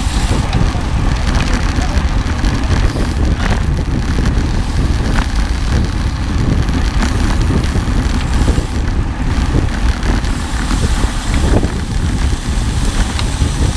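A vehicle running steadily: a loud, continuous low rumble with wind noise on the microphone.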